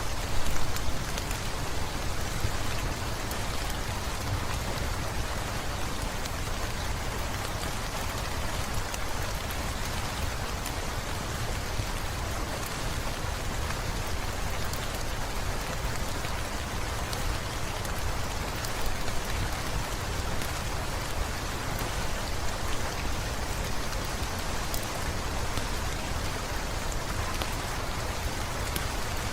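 Heavy rain falling steadily, with scattered small crackles and pops from a wood fire.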